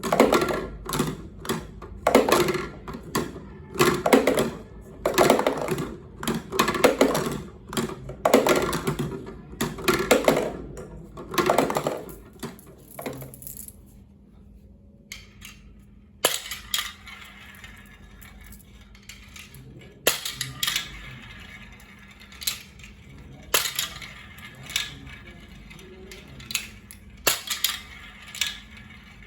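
Marbles rolling and clacking down a marble run: a dense rattle of hard clicks for about the first half, then sparser single clicks over a faint steady hum.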